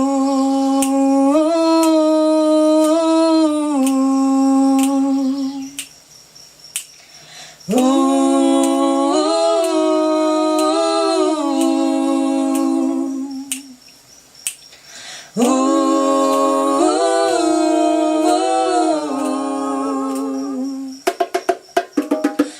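Wordless vocal humming in three long, held phrases, each a few seconds long with pauses of about two seconds between them. A quick run of sharp clicks follows near the end.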